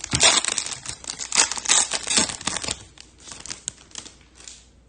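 Crinkling and rustling of trading-card pack wrappers and cards being handled, in a run of quick scrapes for the first few seconds that then thins to a few light clicks.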